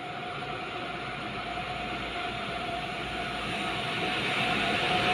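Siemens EU44 'Husarz' electric locomotive hauling an express passenger train on the approach, its rumble and rail noise growing steadily louder, with a steady high hum throughout.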